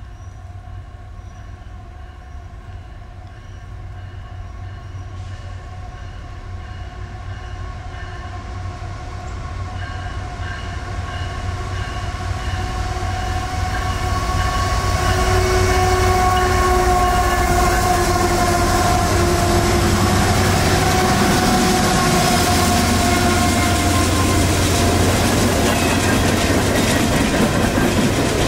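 Approaching CSX diesel freight train, its locomotive horn sounding a long steady chord that grows louder as the train nears. About 25 seconds in the horn fades and the rumble and clatter of hopper cars rolling by takes over.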